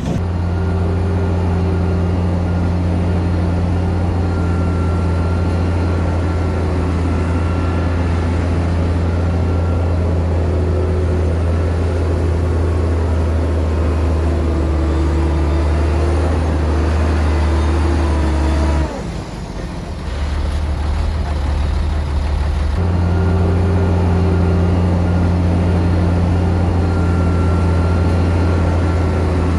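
Heavy diesel engine of earthmoving machinery running at a steady low drone. Partway through, the sound drops and changes for a few seconds, then the same steady drone resumes.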